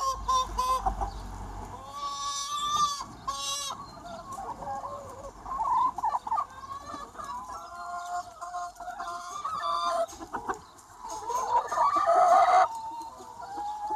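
A large free-range flock of chickens clucking and calling over one another, with a louder burst of calls about eleven seconds in.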